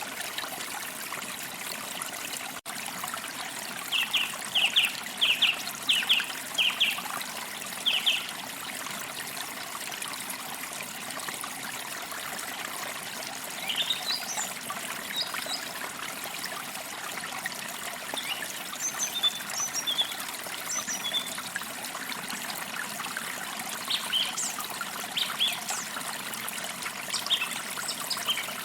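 Forest stream trickling steadily, with songbirds chirping over it: a quick run of short chirps a few seconds in, then scattered higher chirps through the second half.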